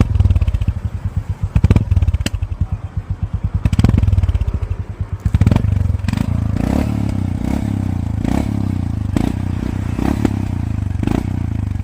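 Royal Enfield Classic 350's single-cylinder engine running through an aftermarket exhaust tip: a slow, distinct thumping idle, a brief blip of the throttle about four seconds in, then revs held up and steady from about five and a half seconds on.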